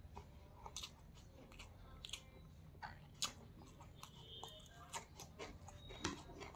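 Faint chewing of a mouthful of chicken curry and rice, with scattered short crisp crunches; in the second half a slice of raw onion is bitten and chewed.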